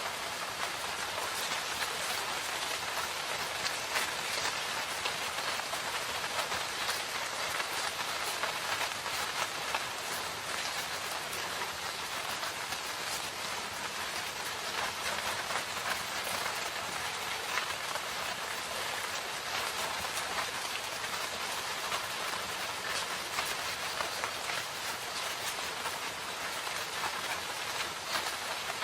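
Steady rain falling in a forest, a continuous patter of many drops striking leaves and the ground with fine individual drop ticks, steady in level throughout.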